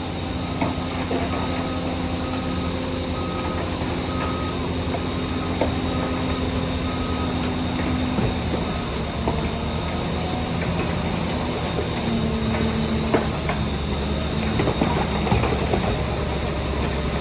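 Diesel engines of heavy earthmoving machinery running steadily, with a constant high hiss and scattered metallic clanks. A faint short beep repeats during the first half, and the engine note shifts about two-thirds of the way through.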